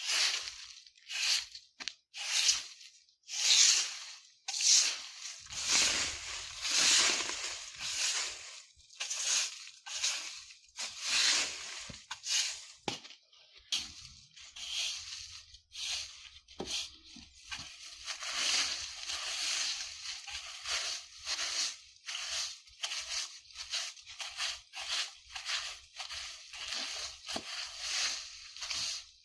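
Broom sweeping dry leaves across the ground: repeated rustling, crunching swishes, about one stroke a second at first, then quicker strokes that run into each other.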